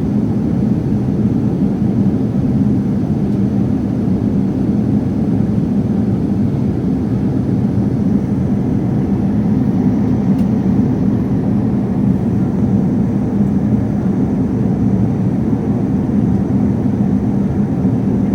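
Jet airliner cabin noise in flight: a steady, unbroken low rush of engine and airflow with a faint constant hum beneath it.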